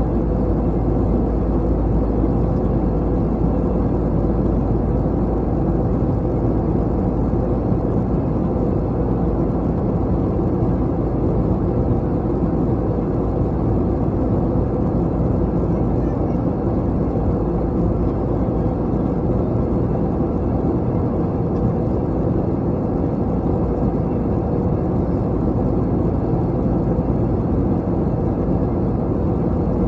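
Steady cabin noise of an Airbus A321 airliner in flight: engine hum and airflow rush heard from inside the cabin, low and even throughout.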